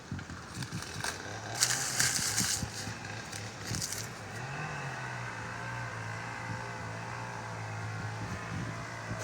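A motor engine hums steadily, a low even tone that steps up briefly in pitch about four and a half seconds in. Near the start, plant leaves and stems rustle in a couple of short bursts.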